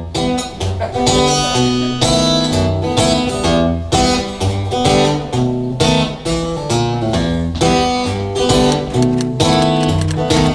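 Acoustic guitar strummed steadily in a rhythmic pattern, the instrumental intro of a folk song played live.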